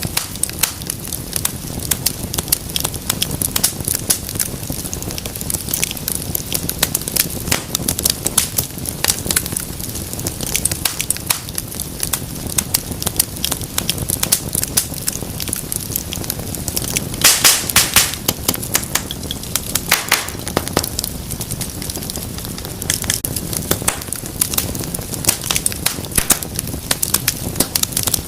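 Wood fire crackling and popping steadily over a low rumble of flame, with a quick run of louder pops a little past the middle.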